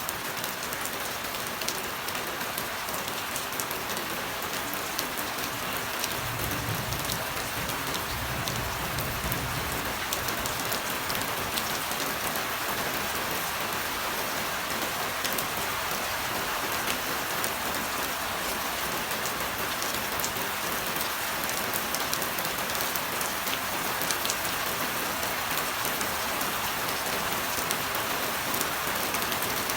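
Steady rain falling on a surface, a dense hiss with individual drops ticking through it. A brief low rumble rises out of it about six seconds in and fades a few seconds later.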